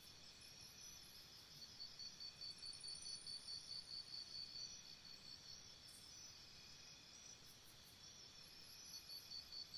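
Faint outdoor ambience of insects chirping steadily at a high pitch, pulsing about four times a second; the pulsing grows stronger about two seconds in, eases off midway and picks up again near the end.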